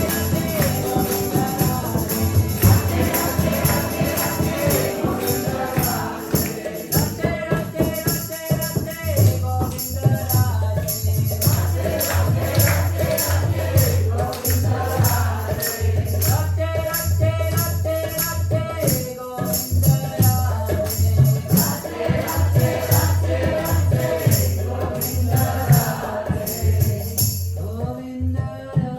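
Live kirtan music: a group of voices singing a devotional chant call-and-response, over a steady drum beat and jingling hand percussion. The jingling and high end drop away about two seconds before the end.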